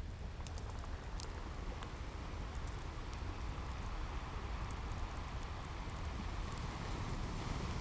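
Ocean waves washing in over a steady low surf rumble, one wave swelling a few seconds in and easing off near the end, mixed with a crackling wood fire giving scattered sharp pops and snaps.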